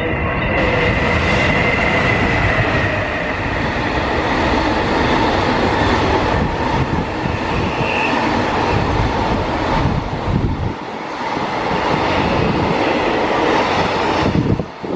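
Freight train running past, a loud steady rush of wheels on the rails. The low rumble dips briefly about two-thirds of the way through.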